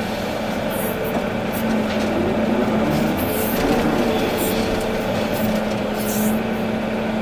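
Volvo EC380D excavator's diesel engine running steadily while the machine works, with several short, high hisses over the engine.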